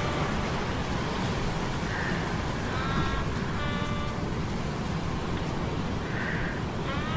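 Steady rushing sea-storm noise of surf and rain. Over it come intermittent metallic humming tones, a few seconds apart, some of them rising in pitch.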